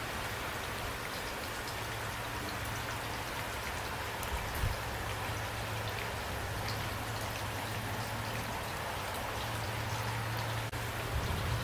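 Steady rain falling, with scattered distinct drop hits over a constant hiss and a steady low hum underneath.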